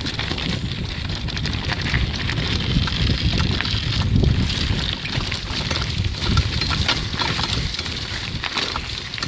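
Wind buffeting the microphone while riding a bike over a rough dirt trail through brush, a steady noisy rumble with scattered clicks and rattles throughout.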